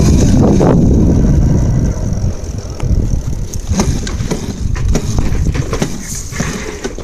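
Small dirt bike engine running close by, loud with a heavy low rumble, then dropping off about two seconds in. Scattered clicks and knocks follow.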